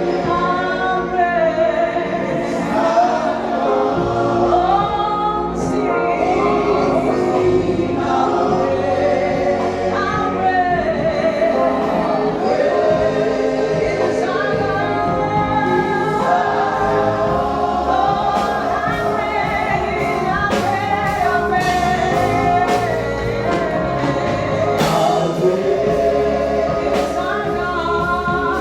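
Gospel worship song sung by a choir with a band, voices carrying the melody over steady bass and cymbals.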